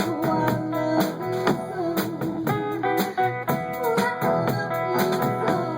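A live band playing an instrumental passage of a swing-style song, with a guitar carrying the melody over a steady beat.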